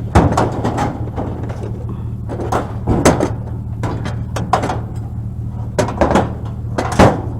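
Heavy scrap metal pieces knocking and clanking as they are handled and loaded, in irregular groups of sharp bangs, over a steady low engine-like hum.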